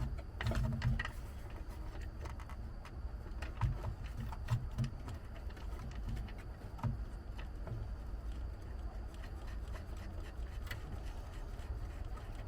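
Scattered light clicks, taps and rubbing of hand work as a speedometer cable is connected, over a low steady rumble.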